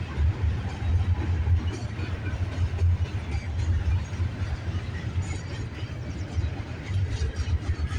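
Intermodal freight train's container cars rolling past, a steady low rumble with faint clicks and rattles.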